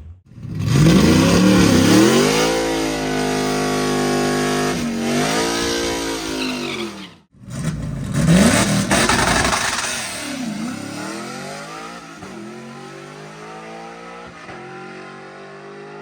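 Twin-turbo big-block drag car engine at full throttle, its pitch climbing steeply and dipping at a gear change about five seconds in. It is heard a second time from about 8 s, climbing again, then fades into the distance as the car runs down the track.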